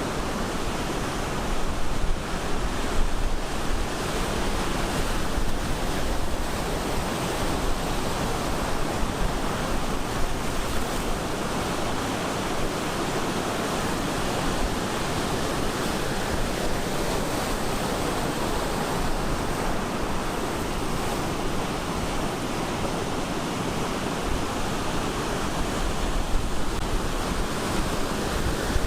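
Ocean surf breaking and washing onto the shore, a steady rushing of water with a low rumble, with wind buffeting the microphone.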